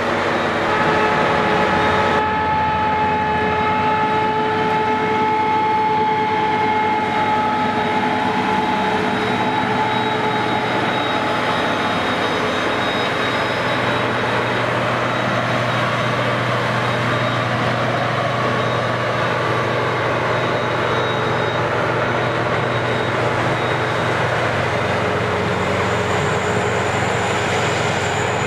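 Heavy harvest machinery running steadily under load. It is a continuous loud drone with several held whining tones and no sharp events.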